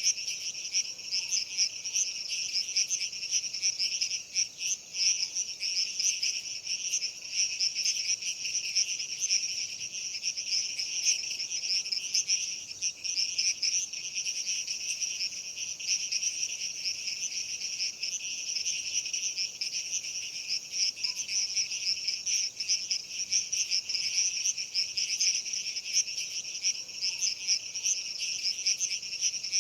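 A dense chorus of crickets chirping: a high, rapidly pulsing trill that goes on without a break.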